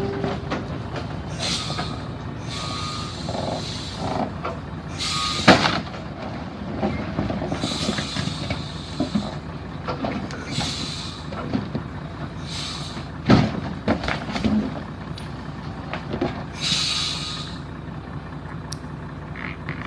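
Heavy truck engine running steadily, with short hisses recurring every second or two. Two sharp knocks, about five and a half and thirteen seconds in.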